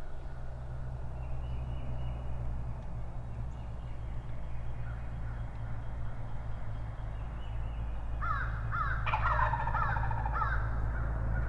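A bird calls a quick series of short, sharp notes starting about eight seconds in, with a fuller, louder burst in the middle of the series, over a steady low background rumble.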